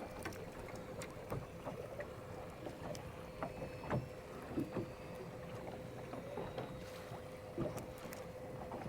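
Small waves lapping and slapping against the hull of a flats boat on the ocean, with scattered small knocks and a steady faint hum throughout.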